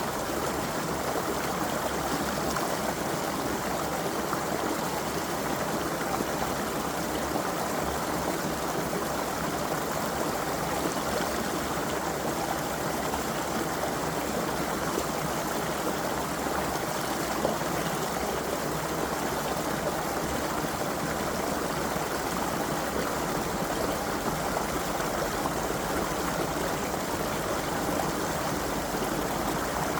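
Creek water flowing and trickling over rocks, a steady even rush.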